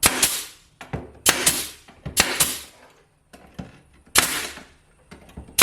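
Pneumatic nail gun firing four times at uneven intervals, with a fifth shot at the very end; each shot is a sharp crack followed by a short hiss. The piece is being fastened back into place.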